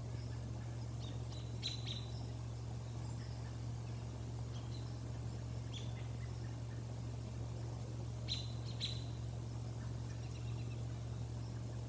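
A few short, high bird chirps, a pair about a second and a half in, one near six seconds and a louder pair about eight seconds in, over a steady low hum.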